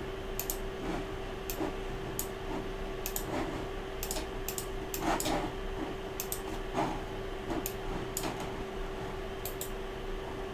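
Irregular sharp clicks from working a computer at the desk, some in quick pairs like double-clicks, over a steady low hum.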